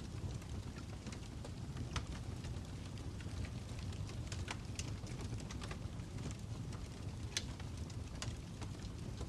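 Fire crackling: a steady low rumble with sharp snaps and pops at irregular intervals, a few of them standing out louder.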